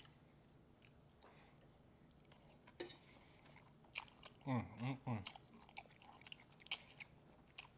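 A person eating a forkful of instant ramen noodles: faint chewing with small mouth clicks and lip smacks, and a short hummed sound about four and a half seconds in.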